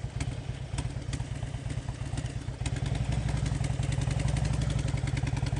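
Harley-Davidson Road King's V-twin engine running with a rapid, even pulse, getting a little louder over the first couple of seconds.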